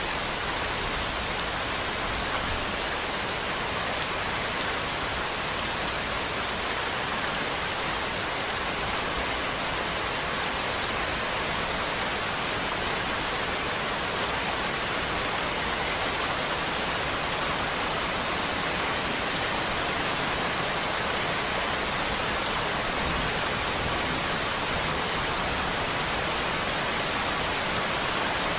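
Steady rainfall: an even hiss of rain with faint individual drops pattering on a surface.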